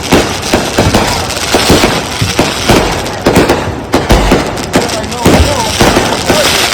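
Consumer aerial firework cakes firing in a rapid, irregular barrage of sharp pops and crackles, with a few deeper booms from bursting shells in the second half.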